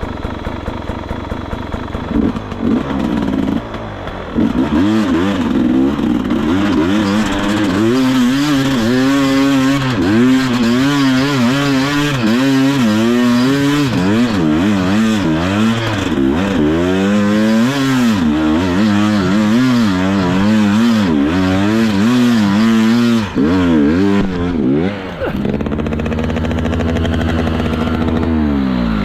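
Enduro dirt bike engine revved hard and over and over, its pitch surging up and down every second or so while the rider struggles to get the bike up a climb. It idles lower for the first few seconds and is held at high revs near the end.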